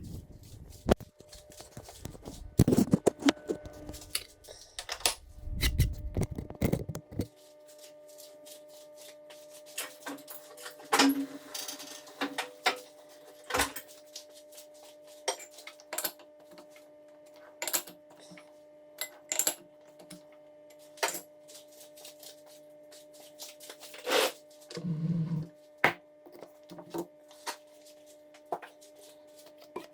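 Scattered metallic clinks and knocks of tools and parts being handled while a chuck and backplate are set up on a metal lathe, over a steady electrical hum. A low rumble with clatter fills the first several seconds and stops abruptly.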